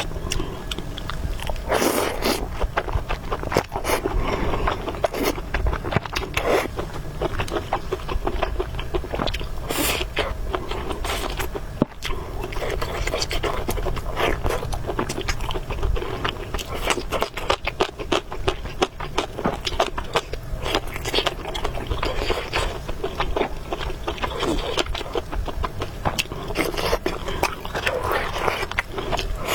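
Close-up eating sounds: chewing and slurping noodles, with a dense run of small wet mouth clicks that goes on without a break.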